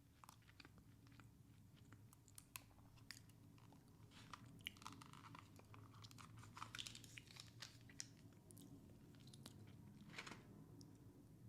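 Quiet close-miked chewing of Chick-fil-A food, with a steady run of sharp crisp crunches and wet mouth clicks.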